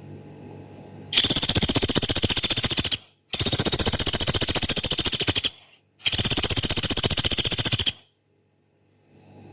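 Pelatuk beras, a small woodpecker, giving three long, fast, high rattling trills of about two seconds each, one after another with short pauses between them.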